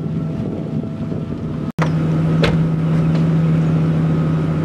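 A car engine running with a steady low drone, with wind buffeting the microphone.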